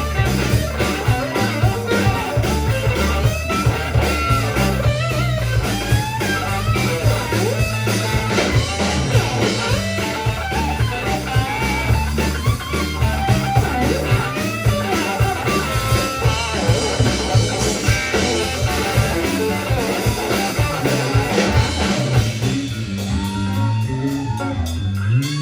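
Guitar-led blues-rock band music with bass and drums keeping a steady beat; the arrangement thins out a few seconds before the end.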